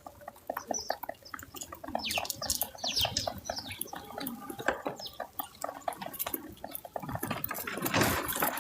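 Animals feeding at a backyard feeder: rapid, irregular crunching clicks close to the microphone, with a few short, high bird chirps about two to three seconds in.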